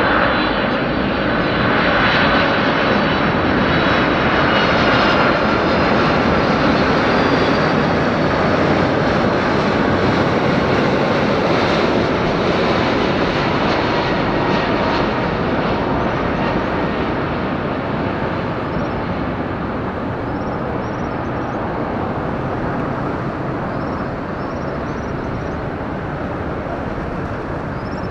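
Wide-body Boeing jet airliner landing: steady loud jet engine noise with faint high whining tones, slowly fading through the second half.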